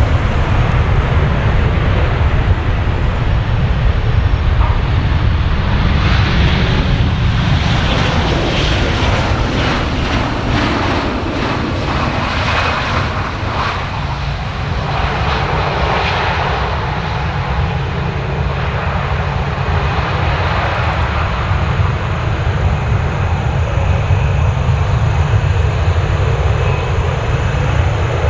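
Boeing 737-800's CFM56-7B jet engines running loud and steady, with a deep rumble throughout and a harsher rushing roar building about six seconds in and easing after about sixteen.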